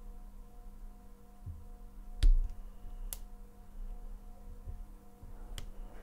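Single pin picking of a Cocraft padlock with spool security pins: a few sharp clicks of the hook pick and pins in the keyway, the loudest about two seconds in, over a faint steady hum.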